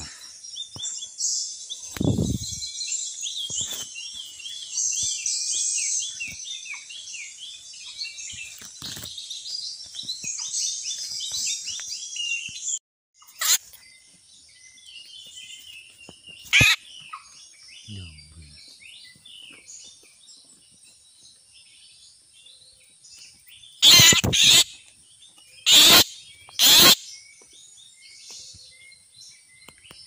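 A dense chorus of wild birds chirping, cut off abruptly about halfway through. Then a freshly lime-trapped grey bird, held in the hand, gives several loud, short, harsh distress calls, three of them close together near the end, over faint chirping from the forest.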